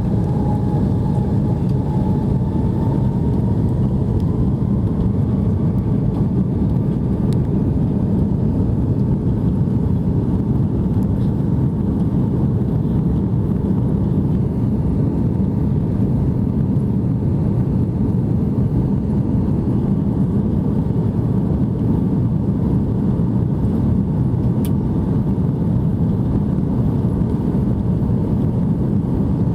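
Steady cabin noise of an Airbus A330-300 jet airliner, a constant rumble of engines and airflow. A faint whine rises slightly in pitch near the start.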